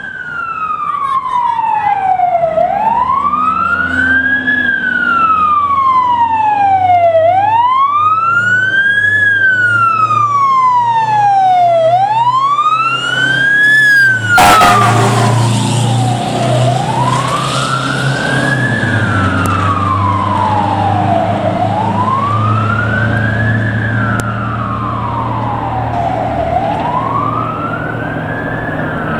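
Fire truck's electronic siren on a slow wail, rising and falling about every five seconds, over the truck's engine. A sudden sharp crack about halfway through, after which the siren sounds less bright and somewhat farther off.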